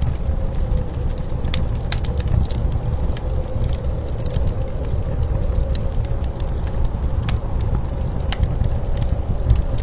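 Blizzard wind rumbling steadily with a wood fire crackling over it, sharp pops and snaps scattered irregularly throughout.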